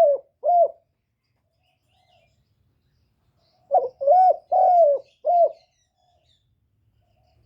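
Spotted dove cooing: the tail of one phrase right at the start, then about four seconds in a full four-note phrase, a short first note followed by three longer ones.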